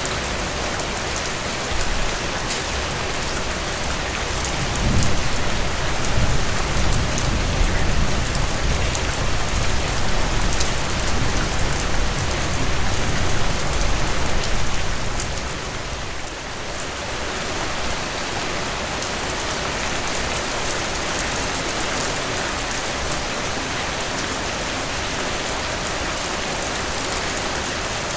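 Steady rainfall, an even hiss of drops, with a low rumble swelling underneath from about five seconds in and fading away around the middle.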